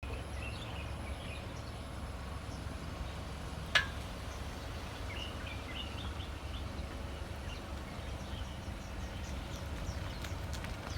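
Outdoor ambience: birds chirping over a steady low rumble, with one sharp click about four seconds in.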